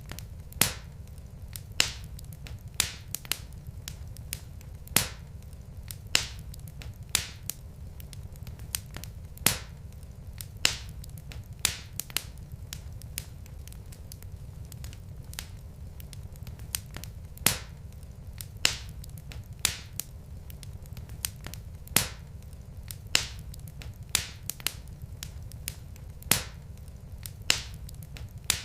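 Wood fire crackling in a fireplace: sharp pops about once a second, unevenly spaced, over a steady low rumble of the burning logs.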